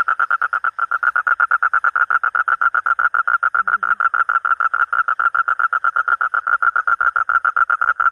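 Monsoon frog calling loudly in one long, fast run of pulsed croaks, about ten a second, steady in pitch.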